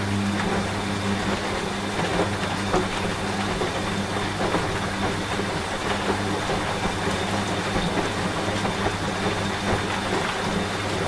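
A washing machine running with a steady low hum, mixed with the even hiss and patter of rain.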